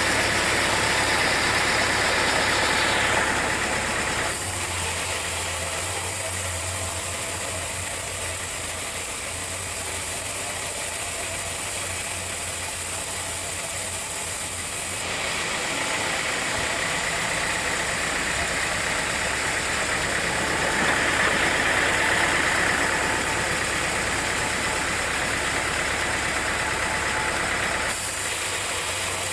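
Sawmill machinery running steadily, a continuous engine-like drone. Its sound changes abruptly about four seconds in and again around fifteen seconds in.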